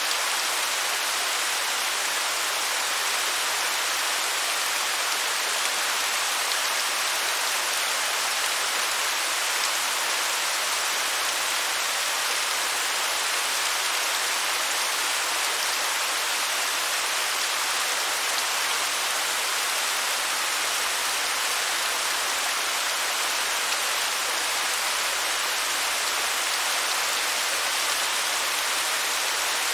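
Waterfall: a steady rush of falling water, an even hiss with little low rumble and no change throughout.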